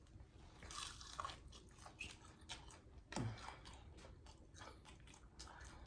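Biting and chewing crispy flour-dredged fried chicken wings: a run of faint, irregular crunches and mouth sounds.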